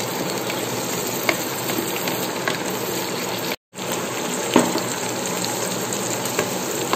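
Mint, coriander leaves, curry leaves and slit green chillies sizzling steadily in hot oil in a nonstick pot, stirred with a wooden spatula that gives a few faint scrapes and taps. The sound drops out for a moment about halfway through.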